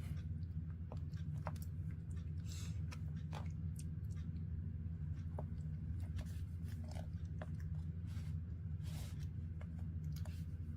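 Baby monkey chewing and biting food, a scatter of small irregular crunching clicks, over a steady low hum.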